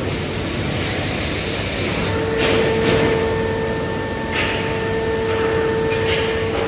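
Factory-floor machinery noise: a dense, steady rumble. A steady whine joins it about two seconds in, and several short hisses sound over it.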